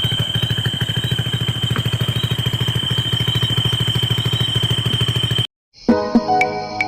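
Motorcycle engine running steadily with an even, rapid beat, cutting off abruptly about five and a half seconds in. Calm instrumental music starts just before the end.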